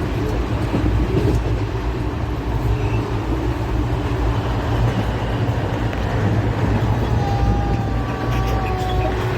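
Moving passenger train running with a steady low rumble.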